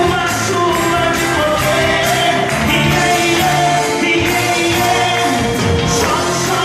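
Brazilian gospel song, sung vocals with held notes over a full band with a steady beat.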